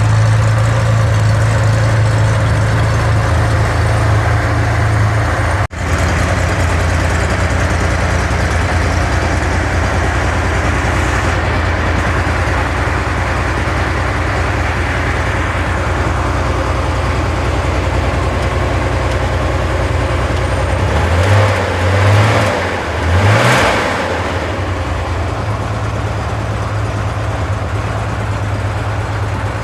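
A Corvair 140 hp air-cooled flat-six engine idling steadily. About two-thirds of the way through it is blipped up twice in quick succession and drops back to a steady idle.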